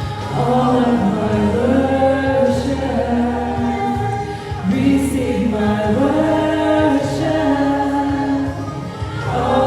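A group of voices singing a slow worship song, with long held notes over a steady low backing.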